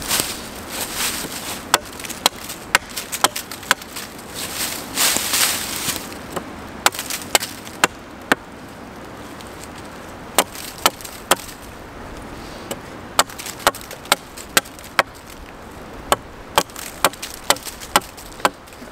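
Wood being chopped: a run of sharp, separate blade strikes at an irregular pace, often one or two a second, with some scraping rustle among the first few.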